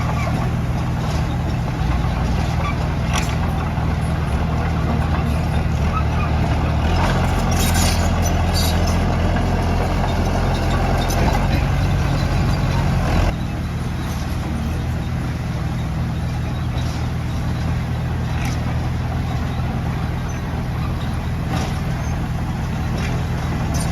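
A heavy diesel engine runs steadily, working harder and louder for several seconds before dropping back abruptly about halfway through, with scattered short clanks over it.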